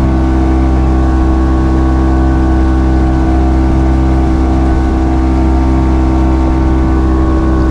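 Boat's outboard motor running steadily at trolling speed, an even, unchanging engine hum.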